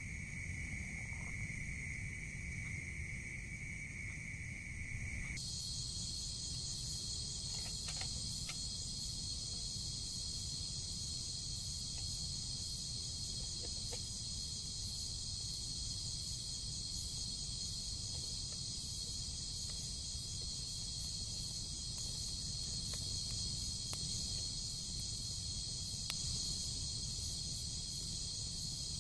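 Forest insects chirring steadily: one insect's even buzz, then about five seconds in a higher, pulsing chorus takes over and runs on. A few faint clicks come through near the end.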